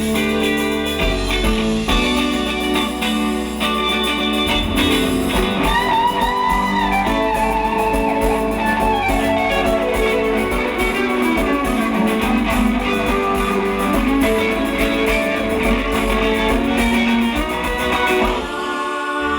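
Live rock band playing an instrumental passage with electric guitar to the fore; a lead line slides up and down in pitch through the middle, and the bass drops out briefly near the end.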